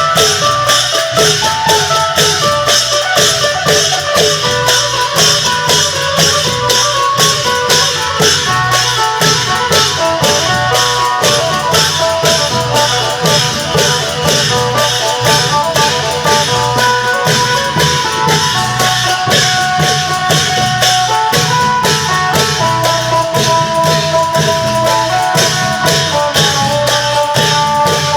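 Isan long-drum (klong yao) ensemble with a phin lute playing continuously: drums and cymbals keep a steady rhythm of about three strokes a second while the phin plucks a melody over them.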